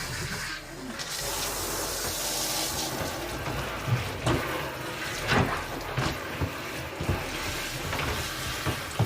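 Water pouring into the wash tub of a Giantex twin-tub portable washing machine, filling it for the rinse cycle: a steady rush of running water, with a few soft knocks in the second half.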